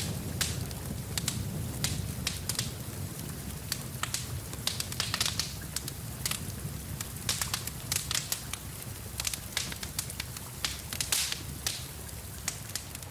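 Wood fire crackling in a fireplace: irregular sharp snaps and pops, several a second, over a low steady rumble that thins near the end.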